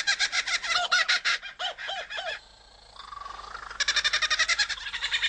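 Kookaburra laughing call: fast runs of repeated chuckling notes, broken by a quieter gap of about a second and a half around the middle before the laughing starts up again.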